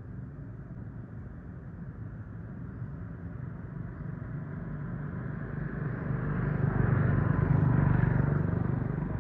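A motor vehicle's engine running, its steady low hum growing louder to a peak about seven to eight seconds in, then easing off.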